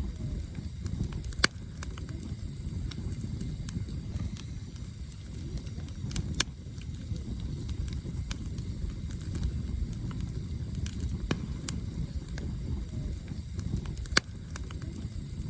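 Campfire of burning firewood crackling, with sharp pops scattered over a steady low rush. The loudest pops come about a second and a half in, about six seconds in and near the end.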